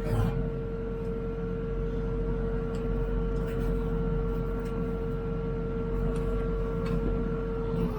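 HIDROMEK 102B backhoe running while digging: a steady engine rumble under a constant hydraulic whine that shifts slightly near the end, with a few faint clicks.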